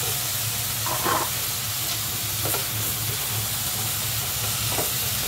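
Fried tofu cubes sizzling in a pan of sautéed garlic, onion and tomato, with a steady frying hiss, while a spatula stirs them and scrapes the pan a few times.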